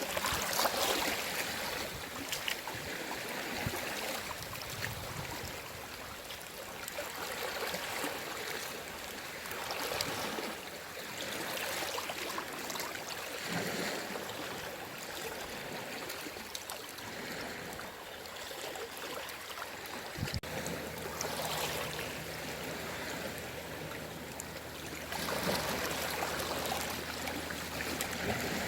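Gentle sea waves washing and trickling on a shore, surging and easing every few seconds. About two-thirds of the way in there is a click, after which a faint low hum runs underneath.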